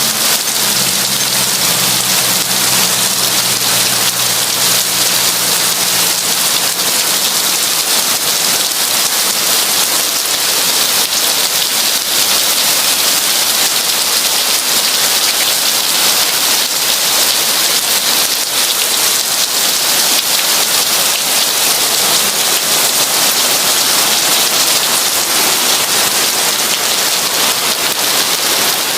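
Heavy rain falling steadily on a window, a dense, even hiss with no breaks. A low steady hum fades out during the first several seconds.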